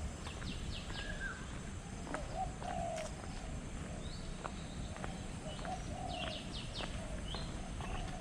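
Several birds calling at once: a quick run of four high chirps near the start and again about six seconds in, with lower calls repeating throughout over a low steady rumble.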